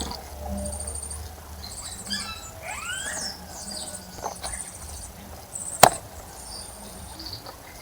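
Small birds calling: high, thin trilling chirps repeat again and again. A rising whistled call comes about two and a half seconds in, and there is a single sharp click about six seconds in.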